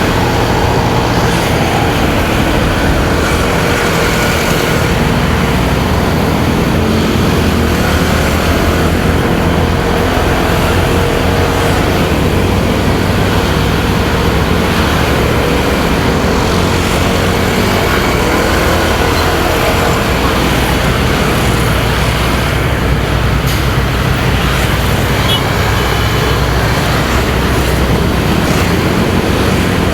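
Motorcycle engine running at road speed, its pitch drifting gently up and down, over wind noise and the rumble of surrounding road traffic.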